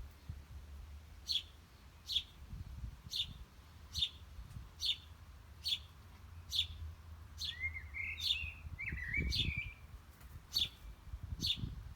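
Wild birds calling: one bird repeats a short, high, downslurred chirp about once a second, and a second bird sings a brief warbling phrase about two-thirds of the way through.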